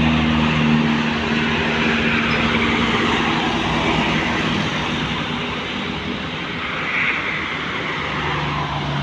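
A heavy road vehicle's engine passing by, its low hum fading over the first few seconds into steady road and traffic noise. A second engine hum comes up near the end.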